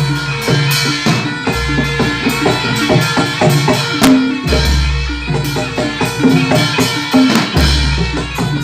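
Javanese gamelan music: fast drum and struck metal-bar strikes in a steady rhythm, with a deep gong-like low stroke about every three seconds.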